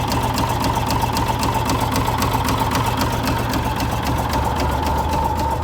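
Komatsu D65E bulldozer's diesel engine idling just after a cold start, with a rapid, even knock running through it that the operator takes for rod knock.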